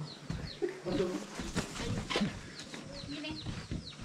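Birds chirping: many short, falling high chirps in quick succession, with a low murmur of voices behind.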